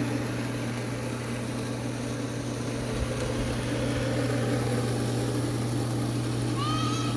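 A machine running with a steady low hum. A short high chirp comes near the end.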